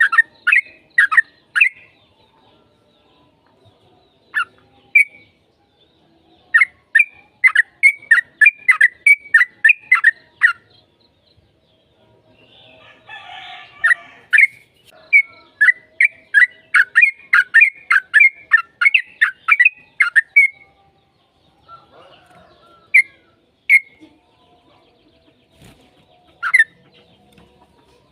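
Yellow-vented bulbul (trucukan) singing in long rapid runs of sharp chirping notes, about four or five a second, with pauses between the runs and a few single notes near the end. A brief rough noise comes about halfway through.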